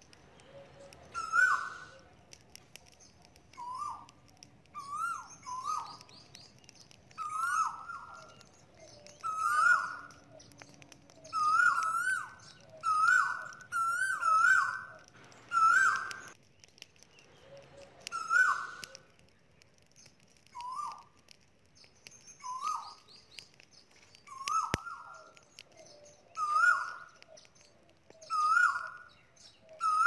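A bird calling over and over, a short hooked note repeated every second or two, loud and close, with a brief pause about halfway through.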